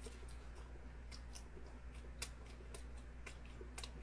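A person chewing food, with faint, sharp mouth clicks coming irregularly every few tenths of a second.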